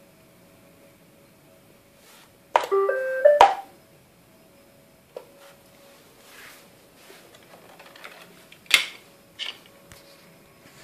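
A Roomba 563 robot vacuum plays a short electronic tune of stepped beeps, about a second long. A few sharp clicks follow later.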